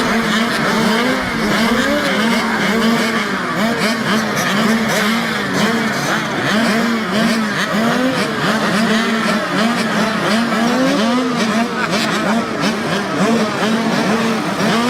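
Several small mini-motorcycle racing engines running together, their pitch rising and falling again and again as the throttles are opened and shut through the laps.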